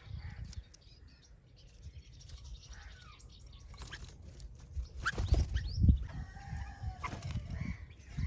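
Birds calling in short chirps and quick sweeping notes, busiest about five seconds in, with a few low thumps at the same time.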